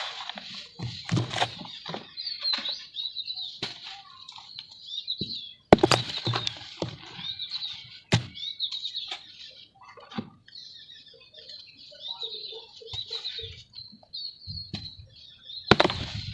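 Clumps of dry red dirt being crushed and crumbled, with crisp crunches and two sharp smashes a little after halfway. Small birds chirp in the background throughout.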